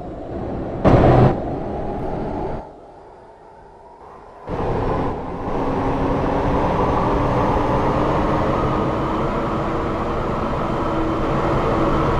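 MRT Line 3 train running on its track, heard from on board: a steady rumble with a short loud bang about a second in. The sound drops to quiet for a couple of seconds, then returns as running noise with a faint tone that grows slowly louder.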